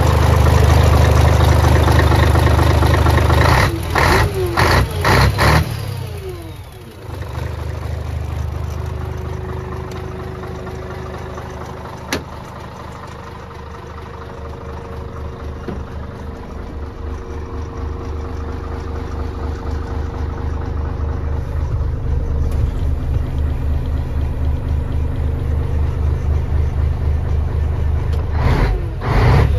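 Scania 113 360 truck's 11-litre six-cylinder diesel engine running. It is loudest in the first few seconds and then settles to a steadier sound that grows gradually louder. There are a few short bursts of noise about four to six seconds in and again near the end, and a single sharp click about twelve seconds in.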